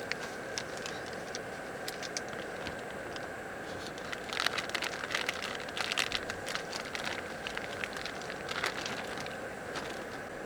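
Firewood burning in a small fire pit, crackling with many sharp pops that come thickest from about four to seven seconds in, over a steady hiss.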